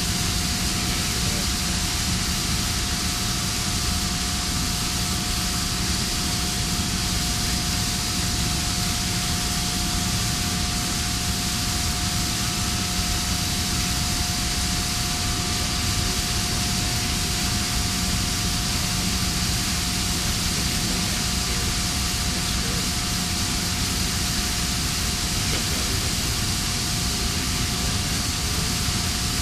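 Steady industrial background noise: a continuous rushing hiss with a constant mid-pitched hum and a lower drone underneath, unchanging throughout.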